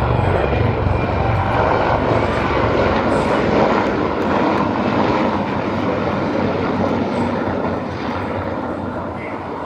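Fixed-wing aircraft flying past: a loud, steady engine roar that peaks about three to four seconds in, then fades gradually as it moves away.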